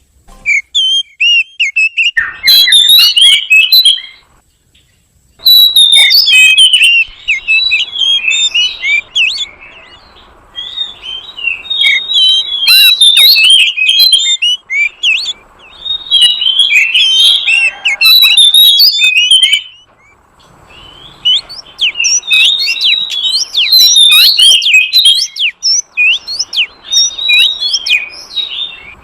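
Oriental magpie-robin (kacer) calling in loud phrases of rapid, varied chirping notes, each a few seconds long with short pauses between; a lure call played to draw wild magpie-robins in.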